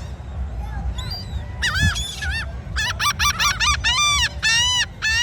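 Several seagulls calling loudly, a rapid series of short, arched cries that starts about a second and a half in and grows denser, with birds calling over one another. A steady low rumble runs underneath.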